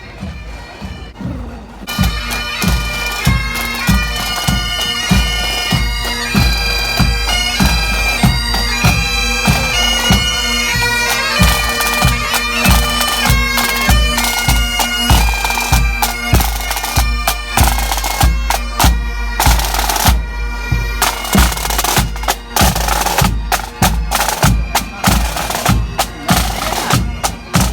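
Pipe band playing: bagpipes over their steady drones with a regular drum beat, much louder from about two seconds in.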